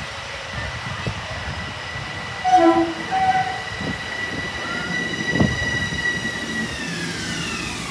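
Metro-North electric commuter train pulling into the station: its motors give a steady high whine that slides down in pitch near the end as the train brakes. Two short horn toots about two and a half seconds in, and a single clunk from the wheels a couple of seconds later.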